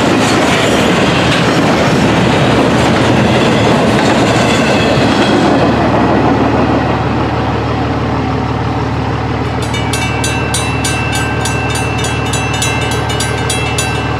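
Double-stack intermodal railcars rumbling and clacking over the crossing until the train clears about six seconds in, leaving a steady low engine idle. From about ten seconds in, the crossing's mechanical bells ring in rapid strikes as the gates go up.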